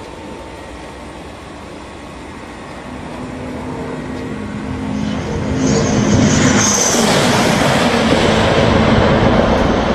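High-speed train approaching and passing: a rush of noise that builds for several seconds, with a brief high whine as it arrives, then a loud, steady roar as it goes by.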